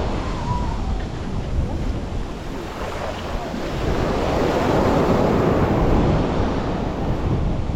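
Surf washing onto the beach, one wave swelling up and breaking about halfway through, with wind rumbling on the microphone.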